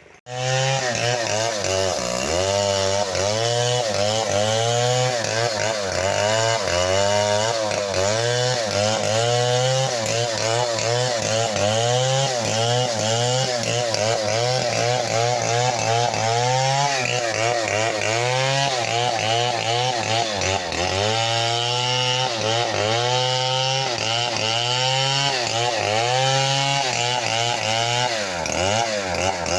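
Chainsaw running at high revs while cutting a tree, its engine pitch rising and dipping over and over as the chain bites into the wood and frees up again.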